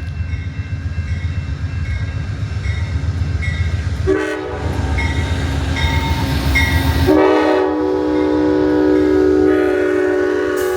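Amtrak Borealis passenger train approaching, with a low locomotive rumble and a bell dinging at a steady beat. The train horn sounds about four seconds in, then comes in louder at about seven seconds and holds through the end.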